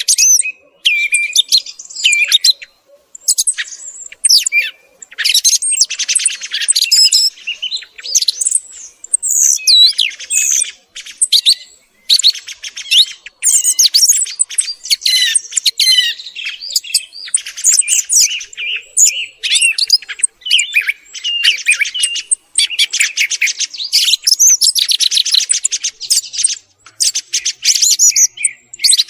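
Thrush song: a near-continuous run of loud, varied high phrases, mixing whistled notes with fast trills and chatter, broken by short pauses.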